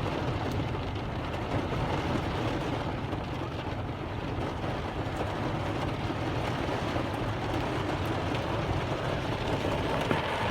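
Heavy rain pouring down in a steady, dense hiss that neither builds nor fades.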